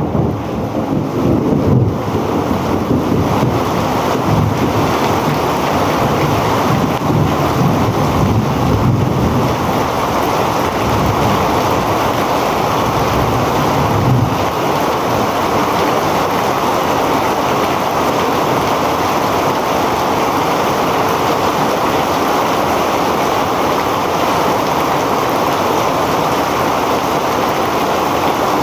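Heavy rain pouring down steadily, with low rolls of thunder rumbling through the first half and then fading out.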